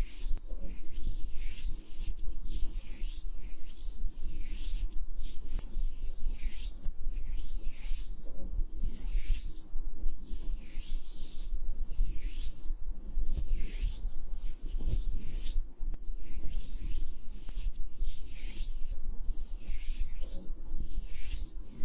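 Soft rubbing strokes against a binaural ASMR microphone, coming one after another about once a second as high, hissy swishes.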